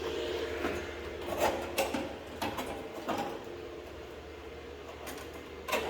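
Metal parts and hand tools being handled in a workshop: an uneven series of sharp clicks and knocks, with a steady hum that dies away about two seconds in.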